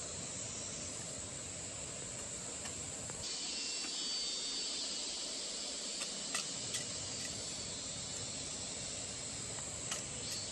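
A steady hiss under a high, continuous chirring of insects that thickens about three seconds in, with a few faint clicks.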